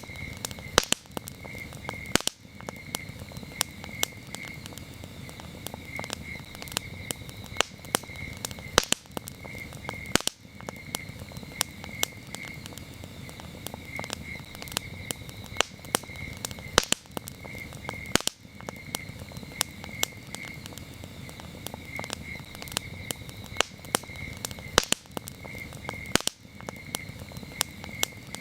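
Campfire crackling, with frequent sharp pops of burning wood over a low steady rumble of the flames, and crickets chirping steadily and high-pitched.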